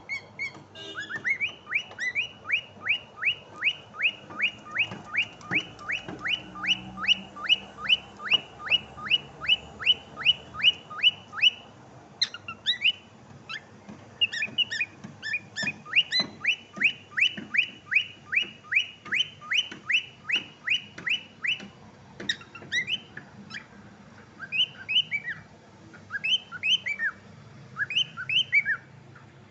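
Cockatiel whistling long runs of quick, repeated sweeping notes, about three a second. There is a short break near the middle, and the later phrases are shorter and more scattered.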